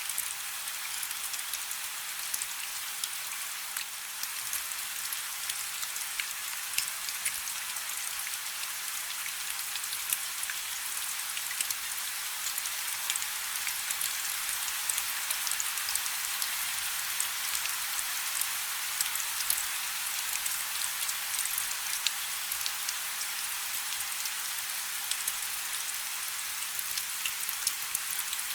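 Light rain falling: a steady hiss with many small drop ticks scattered through it, the sound sitting high with almost no low end.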